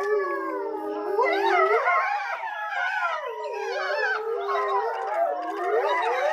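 A pack of grey wolves howling together in chorus, several voices overlapping, their pitches gliding up and down and crossing one another.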